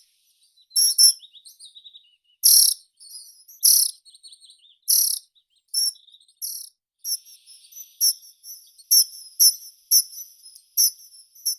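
Songbird singing: short, sharp, high notes about once a second, then a quicker run of repeated notes in the second half.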